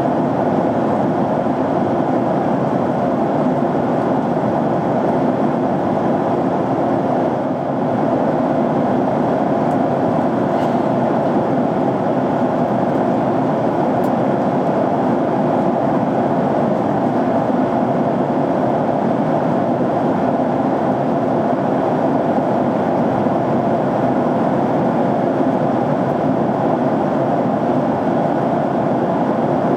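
Jet airliner cabin noise in flight: a steady, even rush of airflow and engines heard from inside the passenger cabin.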